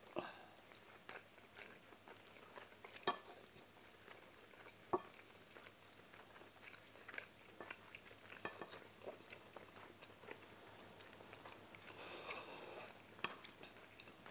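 Faint mukbang eating sounds: chewing and mouth noises, with wooden utensils scraping and tapping a plate. Scattered small clicks, two sharper ones about three and five seconds in.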